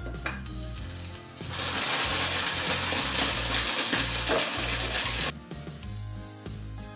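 Egg-white and tuna flatbread frying in a nonstick pan with a drop of oil: a loud sizzle starts about one and a half seconds in and cuts off suddenly almost four seconds later. Background music with a steady bass line runs underneath.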